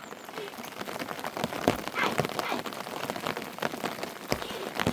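Rain falling, with many irregular drops striking a surface close by.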